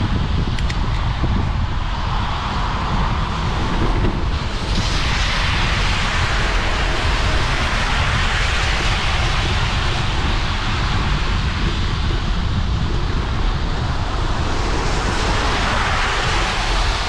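Riding a bicycle on a wet road: a steady hiss of tyres on wet pavement over a low rumble of wind on the microphone. The hiss grows louder about four and a half seconds in.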